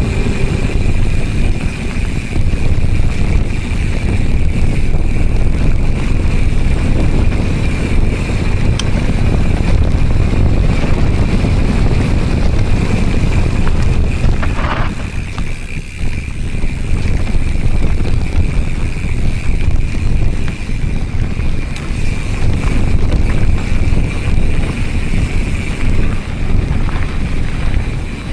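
Wind buffeting the microphone of a camera riding along on a mountain bike at speed, a dense rumbling rush, with a steady thin high whine under it. There is a brief squeal about fifteen seconds in.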